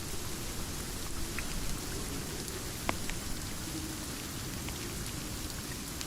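Steady rain, with a low rumbling bed underneath and scattered sharp pops of a crackling fireplace, the loudest about three seconds in.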